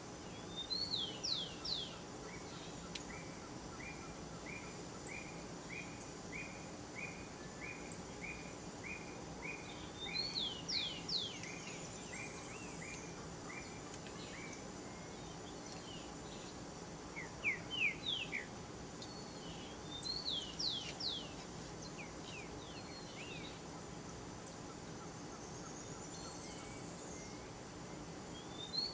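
Wild birds calling: short bursts of three or four quick, sharp whistled notes recur about five times, while another bird repeats a short note about twice a second for around ten seconds in the first half. Steady low background noise runs underneath.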